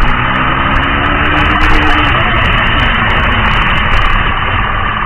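Car engine and road noise, loud and steady, with a low engine tone that wavers in pitch during the first two seconds.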